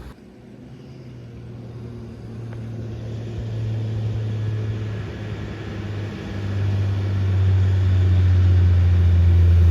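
Truck's diesel engine labouring under load on a steep climb: a deep, steady drone that grows steadily louder as the truck nears. About six seconds in its pitch steps slightly lower and the drone gets stronger.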